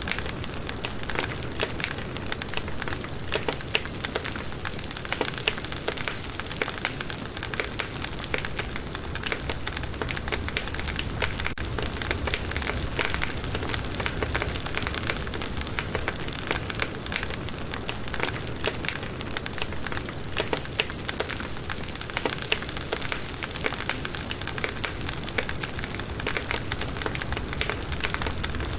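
Firewood burning in a campfire: a steady stream of small crackles and pops over a soft constant hiss.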